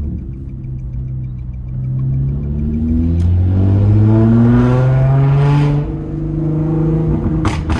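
Nissan Z's V6 engine accelerating: the revs climb steadily for a few seconds, drop suddenly at a gear change about six seconds in, then climb again. Two sharp clicks near the end.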